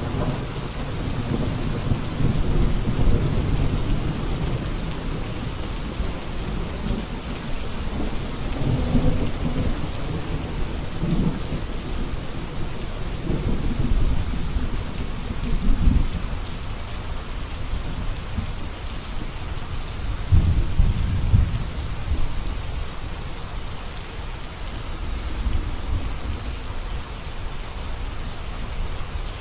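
Steady rain with rolling thunder: low rumbles swell and fade several times over the constant hiss of the rain.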